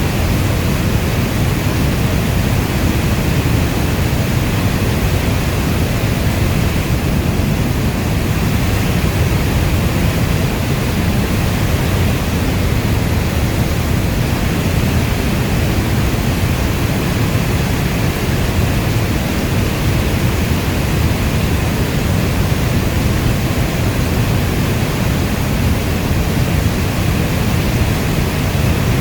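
Steady heavy rainfall: a dense, even rushing hiss weighted toward the low end, with no separate drops, thunder or changes in level.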